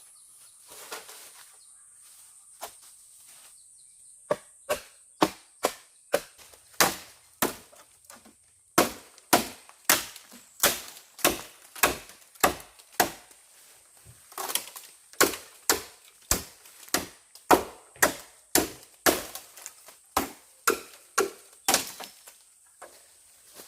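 Steady chopping: a blade striking wood about twice a second in a long series of sharp blows, with a brief pause midway.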